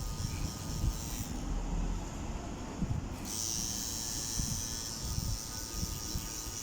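Tattoo machine buzzing, falling silent a little over a second in and starting up again about two seconds later, with low knocks and rumbles of handling underneath.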